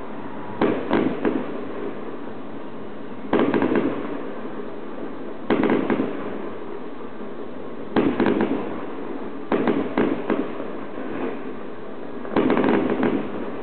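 Aerial firework shells bursting: six loud bursts a couple of seconds apart, each a quick cluster of bangs and cracks.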